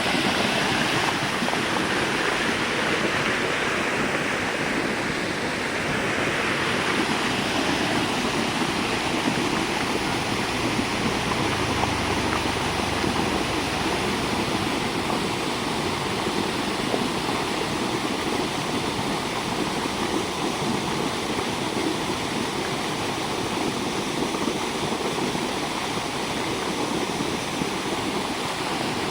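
Floodwater rushing steadily past.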